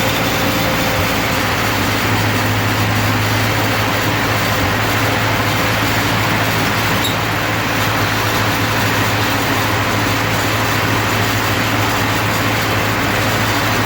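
1942 Ford 9N tractor's four-cylinder flathead engine running steadily, with an even low hum and no change in speed.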